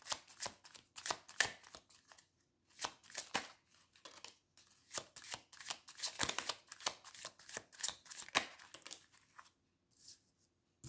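Tarot deck being shuffled by hand: a quick, irregular run of card flicks and snaps, pausing briefly about two seconds in and again near the end.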